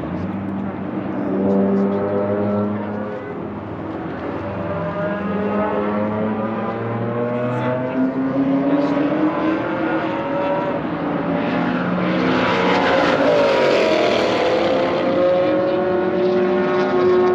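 Race car engines out on the circuit, their pitch rising steadily as they accelerate. A car passes close about twelve seconds in, the loudest moment, its pitch dropping as it goes by.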